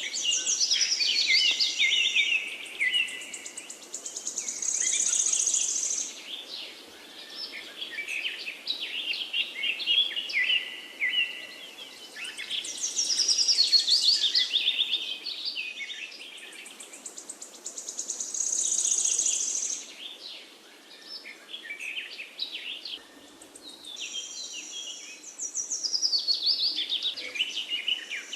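Songbirds singing, rapid chirps and trills in phrases that sweep down in pitch and come back every few seconds, with several birds overlapping.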